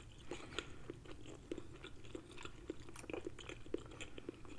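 Close-miked chewing of a mouthful of garlic herb chicken thigh, a steady run of short wet mouth clicks about three a second.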